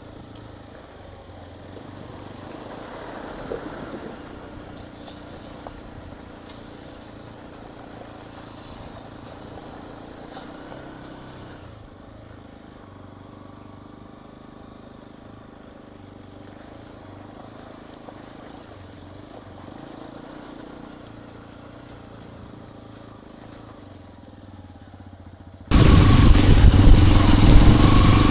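Hero XPulse 210's single-cylinder engine running steadily and fairly quietly. Near the end it abruptly becomes much louder.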